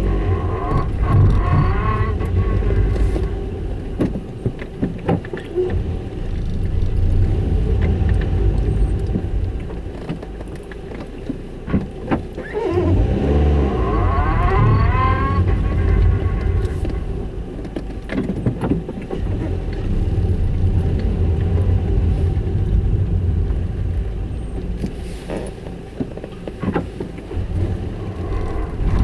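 Toyota Yaris making a grinding noise while reversing, over a steady low rumble from the car, with a whine that rises and falls about halfway through.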